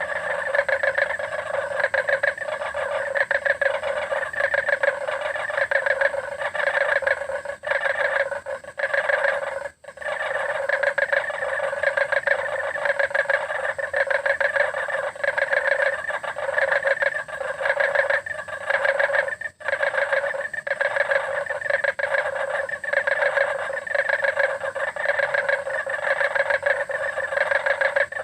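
A chorus of many frogs calling together, a dense continuous stream of rapid pulsed calls, with brief breaks about ten and twenty seconds in.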